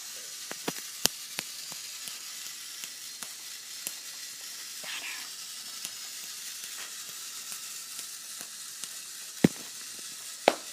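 Battery-powered toy train running along a plastic track: scattered light clicks and ticks over a steady hiss, with one sharper click near the end.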